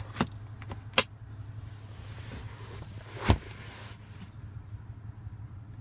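Plastic clicks and a knock from the rear centre armrest and its cup holders being handled: two sharp clicks in the first second, then a louder knock about three seconds in, over a steady low hum.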